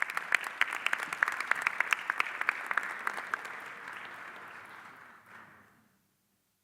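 Audience applauding, with a few sharp nearby claps standing out, fading away and stopping about six seconds in.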